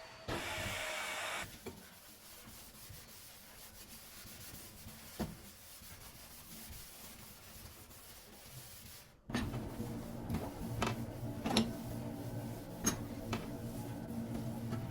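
Household handling noises: a short rubbing or scraping sound near the start, then a quiet stretch with a single faint tap. Light knocks and clicks follow from about two-thirds of the way through.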